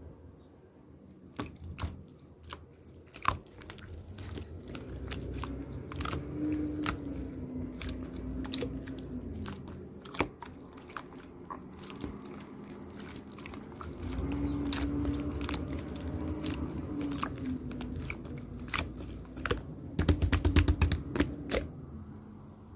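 Slime being squished and poked by hand, giving a string of sharp clicks and crackles, with a fast burst of clicks near the end. A low hum runs underneath, louder in the second half.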